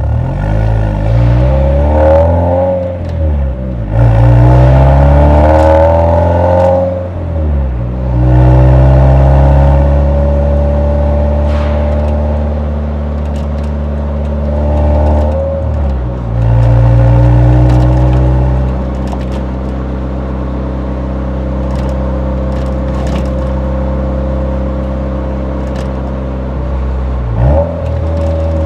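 Exhaust note of a Nissan 180SX's SR20 four-cylinder engine under way, pulling up through the revs several times with the pitch dropping away between pulls as it shifts gear. It then settles into a steady drone at even revs while cruising.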